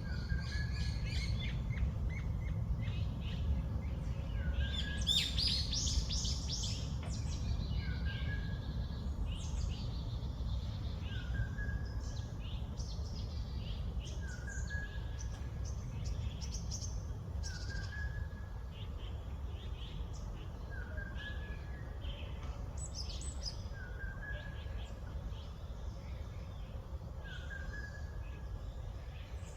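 Several wild birds calling and chirping. One repeats a short, slightly rising note about every two seconds, while others add high chirps, with a busier flurry of song about five seconds in. A steady low rumble of background noise runs underneath.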